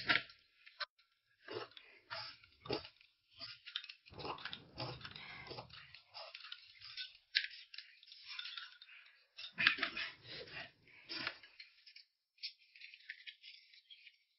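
A person eating: irregular bursts of chewing and crunching, with a few small sharp clicks.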